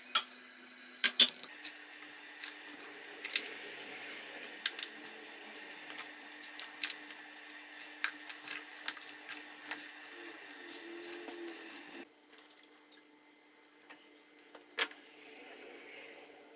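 Light clinks and taps of kitchen dishes and utensils being handled: scattered sharp knocks over a steady hiss that drops away suddenly about twelve seconds in.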